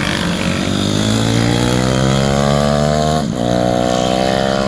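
Pit bike engine accelerating hard, its pitch rising steadily. About three seconds in there is a brief break, like a gear change, and then it runs on at a steady pitch that eases slightly.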